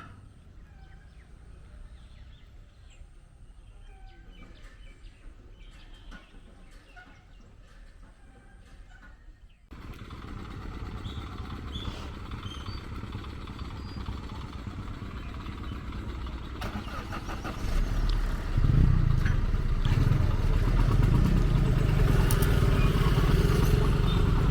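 Motor vehicle engines, motorcycles among them, in a steady noisy din. A heavy low rumble swells about eighteen seconds in. The first ten seconds are much quieter, with faint short chirps, before the sound jumps up suddenly.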